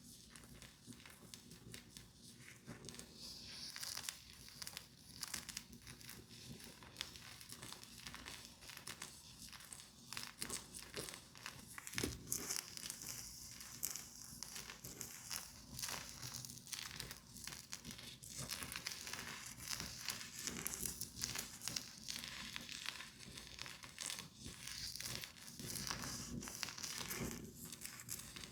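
Close-up crinkling and crackling of makeup items being handled, with many small clicks and taps.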